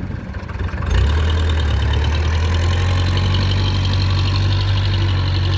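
Tractor diesel engine running steadily. About a second in it gets louder, then holds an even pitch.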